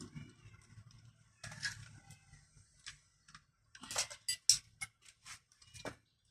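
Irregular sharp clicks and light knocks, like small hard parts or tools being handled, bunched together and loudest about four seconds in.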